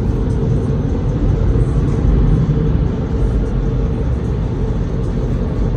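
Dodge Hellcat's supercharged V8 idling: a steady low rumble with a faint constant hum above it.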